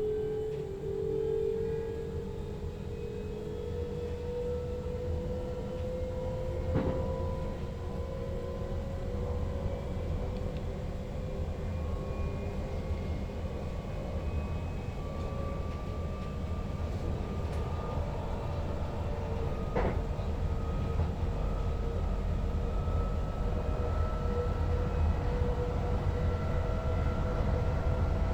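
Electric sprinter train's traction motors whining over the rumble of the wheels on the rails, the whine rising slowly in pitch as the train gathers speed. Two sharp knocks break through, about a quarter and two-thirds of the way in.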